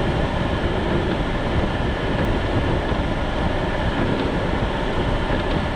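Storm wind rushing and buffeting the microphone in a steady, unbroken roar.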